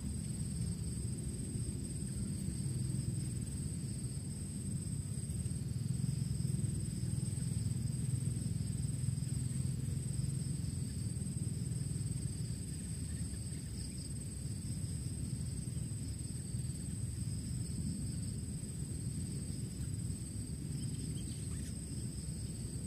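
Insects shrilling in a steady, unbroken high drone, with a low rumble of wind underneath.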